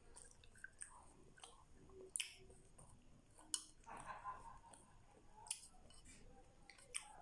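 Faint close-up chewing of grilled skewered barbecue and isaw, with a few sharp wet mouth clicks every second or two.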